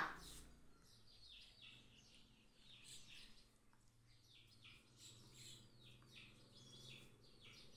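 Near silence with faint, rapid, repeated bird chirps in the background.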